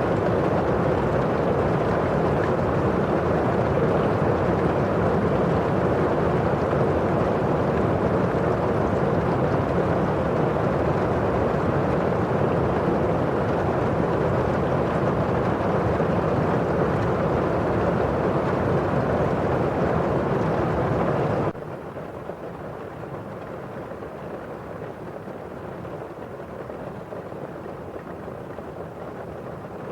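Steady rain on a windowpane with the hiss of rain outside. About two-thirds of the way through the level drops suddenly to a softer, duller rain sound that then holds steady.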